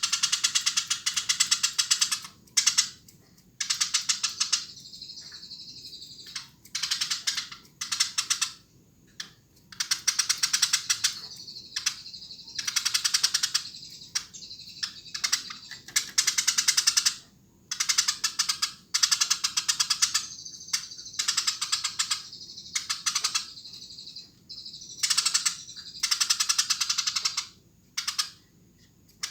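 Eurasian tree sparrow chirping rapidly and continuously in excited bouts of one to three seconds, each broken by a short pause.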